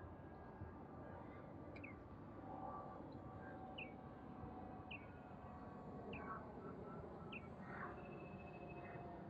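A bird chirping, short repeated notes about once every second or so, five times, over faint steady outdoor background noise.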